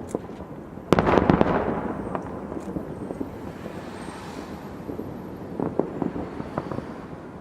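Aerial fireworks bursting: a quick cluster of loud bangs about a second in that fades away over the next second, then scattered lighter pops and crackles near the end.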